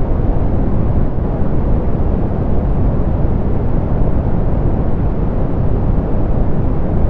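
Steady soft pink noise: an even, unchanging hiss weighted toward the low end, rolled off in the treble.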